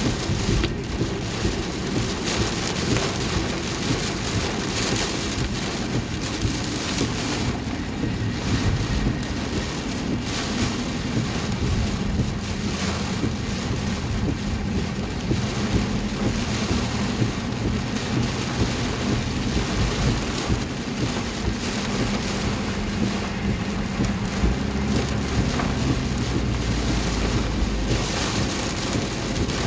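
Heavy rain pounding on a car's roof and windshield, heard from inside the car while it is driven with the wipers on high speed. There is a steady low drone from the car under the rain, and a deep rumble of thunder rolls in for a few seconds near the end.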